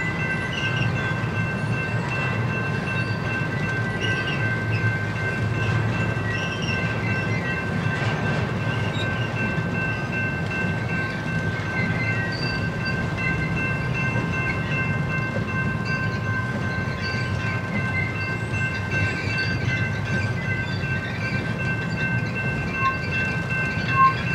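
Double-stack container well cars rolling past: a steady rumble of steel wheels on the rail, with a constant high-pitched ringing over it. A single short, sharp clank comes near the end.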